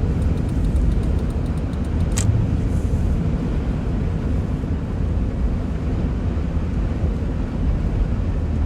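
Steady low rumble of a car's engine and tyres on the road, heard from inside the cabin, with a sharp click about two seconds in.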